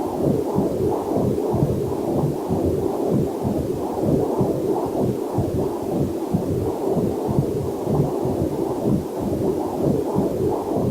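Heartbeat picked up by a fetal Doppler monitor: fast, steady whooshing pulses that repeat evenly without a break.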